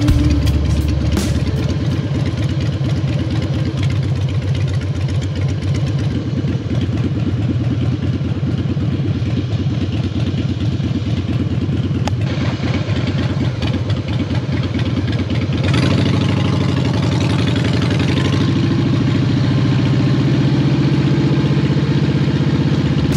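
Harley-Davidson Softail Standard's V-twin engine running as the motorcycle rolls along at low speed, with a steady pulsing exhaust note. About two-thirds of the way through, the note shifts and grows a little louder.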